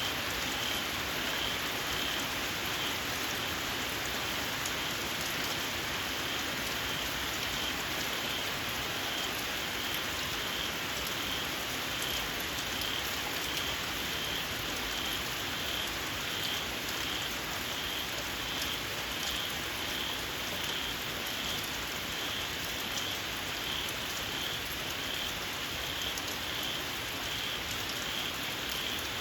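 Steady rain falling, with a small frog's shrill call repeating at a steady, even pulse over it.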